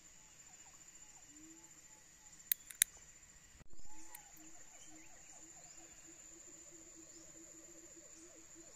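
Forest insects, crickets among them, chirping steadily in a high continuous drone over a faint repeating low pulse. Two sharp knocks come about two and a half seconds in, and a short louder thump or rustle about a second later.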